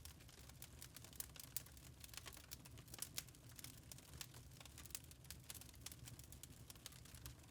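Wood fire crackling faintly in a fireplace, with irregular small pops and snaps.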